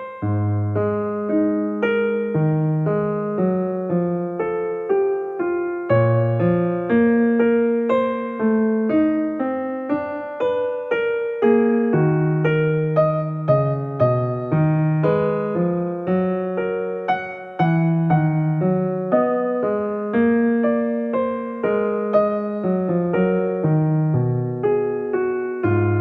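Background piano music: a keyboard playing a steady flowing melody over a bass line, each note struck and fading.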